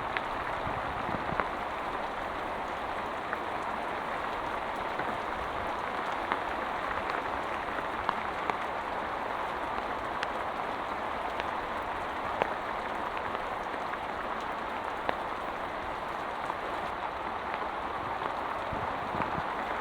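Heavy rain falling steadily, with scattered sharper drop hits standing out from the even hiss.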